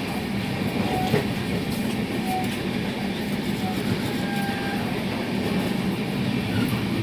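Moving passenger train: the steady rumble and rattle of the coach as its wheels run over the track.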